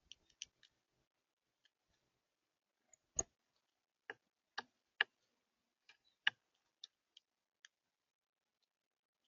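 Irregular sharp taps and clicks on the bird feeder as animals land and feed at it. There are about a dozen, scattered unevenly, with the loudest knocks around three, five and six seconds in.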